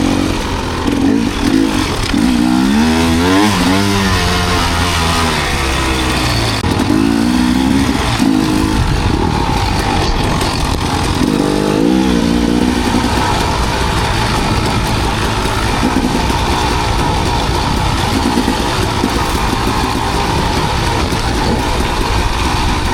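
Enduro dirt bike engine revving as it is ridden, its pitch rising and falling in waves in the first half, then running steadier for the rest.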